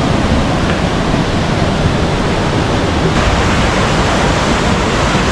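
Waterfall: a loud, steady rush of falling water close by.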